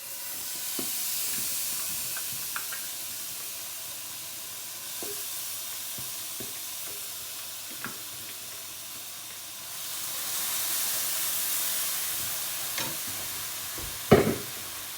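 Onion, garlic, ginger and chilli paste sizzling in a hot frying pan as it starts to fry, with scattered light taps of stirring. The sizzle swells again about two-thirds of the way in, and there is a louder knock near the end.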